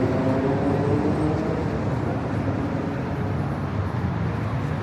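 Street traffic noise: a steady low rumble, with a vehicle's engine note rising slightly in pitch near the start.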